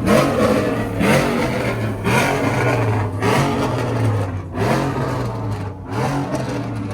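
A vehicle engine being revved over and over, about once a second. Each rev rises sharply in pitch and drops back, over a steady low idle.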